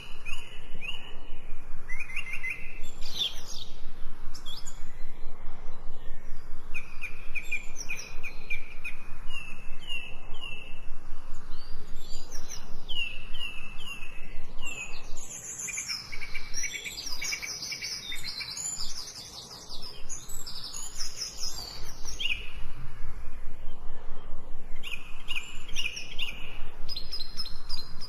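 Several songbirds chirping and singing, with runs of quick repeated notes and trills, overlapping one another.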